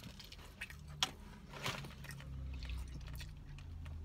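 A person chewing a mouthful of breaded fried chicken tender, with a couple of short clicks in the first two seconds.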